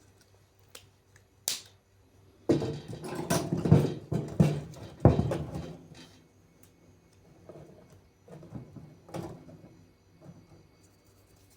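Firewood being handled and loaded into a wood stove: irregular knocks and thuds, a dense cluster of them a few seconds in, then softer scattered knocks with a sharp click near the end.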